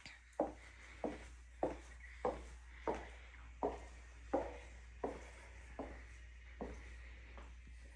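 Footsteps, about eleven steady steps at a walking pace, growing softer near the end, over a low steady hum.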